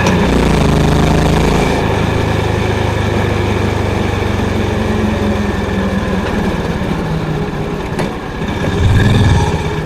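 Honda CB350's single-cylinder engine and exhaust on the move, a low, steady thump. The note shifts a couple of times in the first two seconds and swells briefly near the end.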